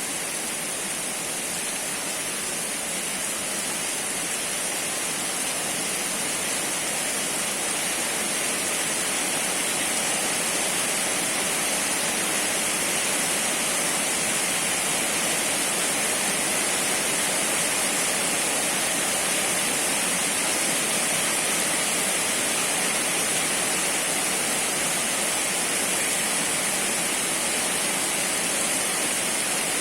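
Heavy rain falling as a steady hiss, growing a little louder over the first ten seconds or so.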